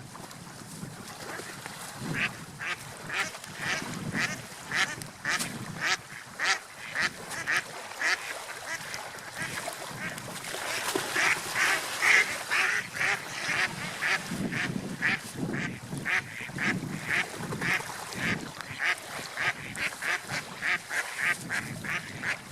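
Ducks quacking: a long run of short calls, about two a second, starting about two seconds in and loudest about halfway through, over a low rumbling background.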